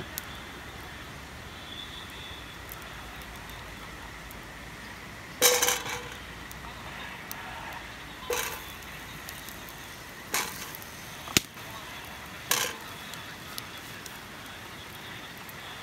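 A handful of short, sharp knocks and clinks, about five over seven seconds, over a steady background hiss. The first, about five seconds in, is the loudest and rings briefly.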